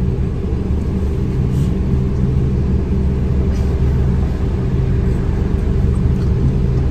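A car engine idling, a steady low hum heard from inside the car's cabin.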